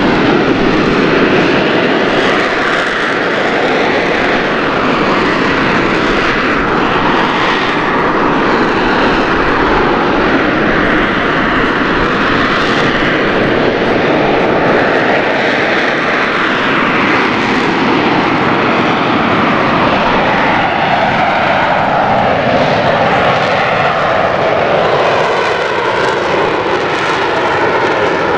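AV-8B Harrier II's Rolls-Royce Pegasus turbofan running loud and steady through the flying display, with a band of its noise sliding down in pitch over several seconds late on.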